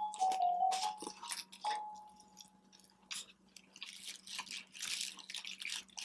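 Close-miked mukbang eating sounds: wet chewing and mouth smacking, in short clicky bursts that pick up in the second half. In the first two seconds a soft, thin tone steps between a few notes.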